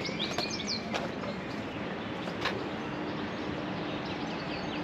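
Small birds chirping in quick, repeated calls, busiest near the start, over steady outdoor background noise, with a couple of sharp clicks.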